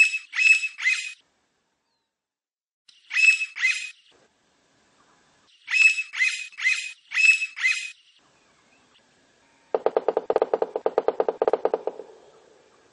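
Blond-crested woodpecker calling in short sets of high, nasal notes: three, then two, then six in a row. About ten seconds in, a lower, rapid pulsed call runs for a couple of seconds.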